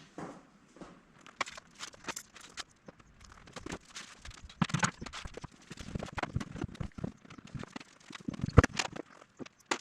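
Irregular knocks, taps and clatter of things being handled, with a few heavier thuds and the loudest knock near the end.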